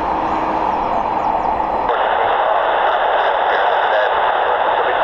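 Air traffic control radio hiss: an open channel carrying steady static with no voice, narrow and tinny. About two seconds in, the hiss suddenly changes and loses some of its upper part.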